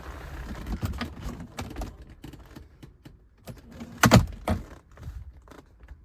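A run of light clicks and knocks, with one sharp, loud knock about four seconds in.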